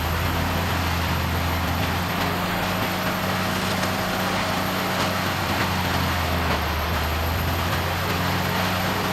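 Heavy diesel engine of a large wood-processing machine running steadily at high revs: a deep, constant drone with an even grinding rush over it.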